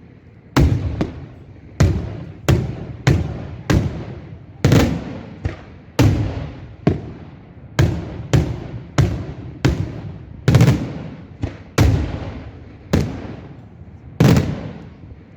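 Daylight fireworks display: aerial shells bursting in a rapid, irregular series of loud bangs, one to two a second. Each bang dies away in a trailing echo.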